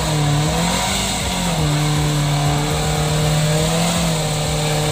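Off-road 4x4's engine running hard at high revs as it climbs a muddy track, its pitch dipping and rising a few times with the throttle.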